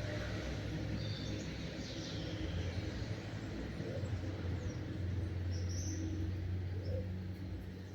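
Small songbirds chirping in short bursts, a few calls about a second in and again around six seconds, over a steady low rumble.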